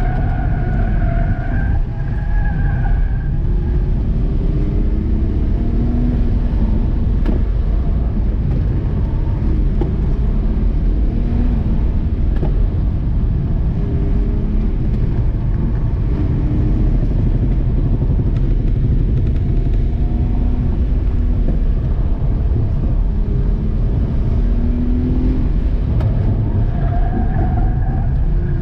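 The 2005 BMW 325i's 2.5-litre inline-six engine revving up and falling back over and over as the car is driven hard through an autocross course, heard from inside the cabin over a heavy low rumble. Higher-pitched tones rise over it in the first few seconds and again near the end.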